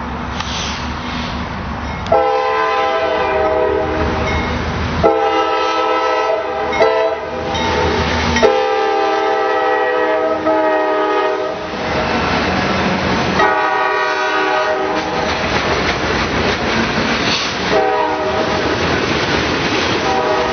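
Freight locomotive's air horn sounding a chord in a series of long blasts, with a shorter one in between, over the rumble of the locomotive and the train rolling along the rails.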